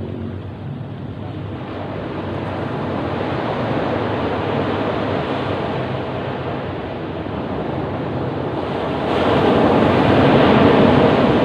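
Ocean surf breaking on a beach, a steady rushing wash that swells, eases a little, then surges with a louder wave near the end.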